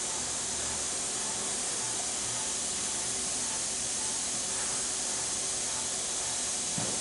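Machine tool running while machining a spindle sleeve: a steady hiss with a faint low hum underneath, and a small knock near the end.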